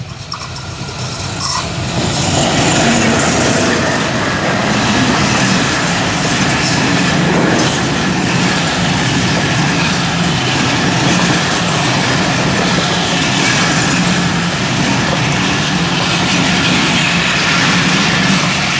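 Diesel-hauled passenger train, a WDM2 locomotive pulling intercity coaches, passing close by. The locomotive's approach builds for about two seconds, then the coaches roll past with a steady loud rumble and wheel clatter on the rails.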